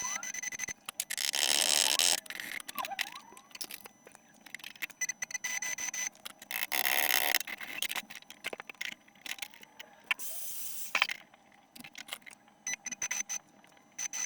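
Electric arc welding in short bursts of about a second each, three in all, each a loud, crackling hiss, with scattered crackles and a faint high steady tone between them, as steel sections of a motorbike stand are tack-welded.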